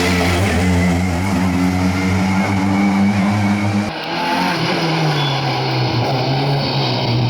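Rally car engines running hard on a stage, with no speech. About four seconds in, the sound switches abruptly to a different car whose engine note drops in pitch and then holds steady.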